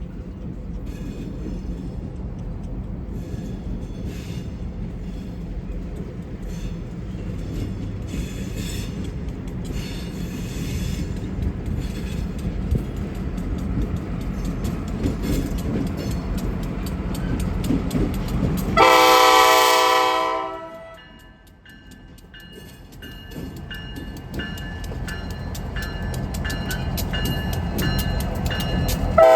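Diesel freight locomotive running with a low rumble and scattered wheel clicks, growing louder as it approaches. About two-thirds of the way in, its air horn sounds one loud chord for about two seconds. The rumble then drops away, leaving faint repeated ringing tones, and the horn starts again at the very end.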